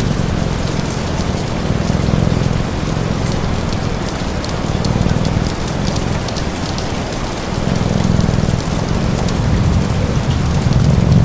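Steady rain falling, mixed with the fine crackle of a fire. Under it a low rumble swells and fades every few seconds.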